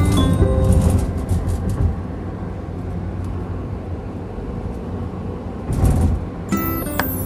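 Steady low rumble of a vehicle and road traffic, swelling briefly about six seconds in. Background music with pitched notes fades at the start and comes back near the end.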